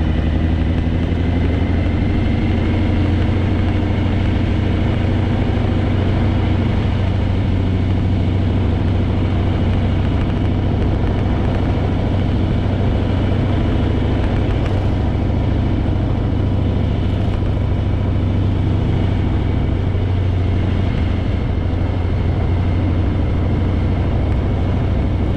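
Harley-Davidson Fat Boy's V-twin engine running steadily while riding, with road and wind rush.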